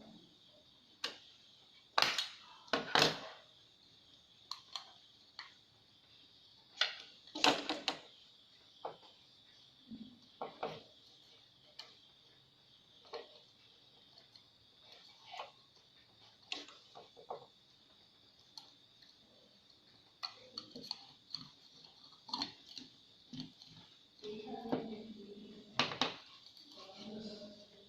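Scattered clicks and light knocks of small plastic and metal parts being handled while taking apart an LED bulb, irregular and a few per second at most.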